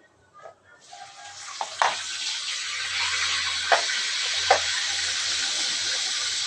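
A steady hiss fades in about a second in and then holds, with a few scattered clicks over it.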